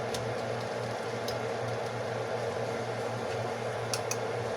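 Veggies and black beans sizzling steadily in a pan as they cook down, over a constant low hum, with a few light clicks.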